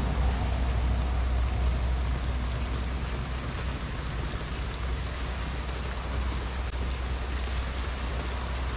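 Heavy rain falling on a small camper van: a steady hiss over a low rumble, with scattered sharp taps of individual drops.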